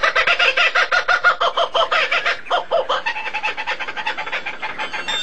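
A bird calling in a rapid run of short, repeated pitched notes, about ten a second, slowing and fading after about three seconds.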